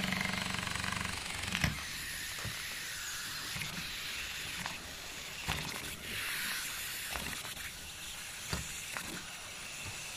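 Small live-steam model engine hissing steadily, with irregular light clicks, after a steady mechanical hum cuts off about a second in. At this low steam pressure the engine turns but lacks torque.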